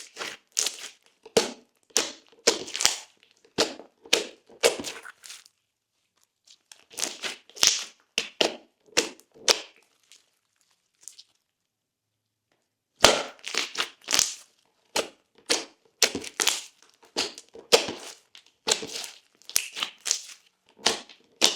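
Hands squeezing and pressing thick glossy slime, giving irregular runs of crackles and small sharp pops, broken by two short pauses.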